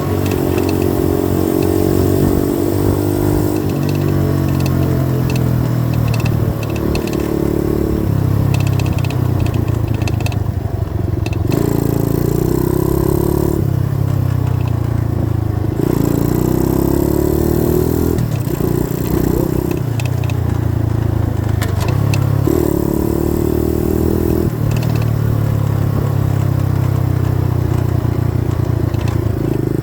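A 90cc dirt bike's engine running under way, its pitch climbing and then dropping back every two to four seconds as the throttle is worked.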